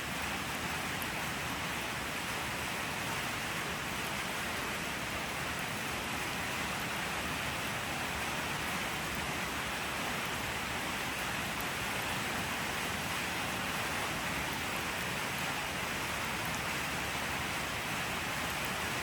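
Steady rain falling, a constant even hiss with no pauses or changes.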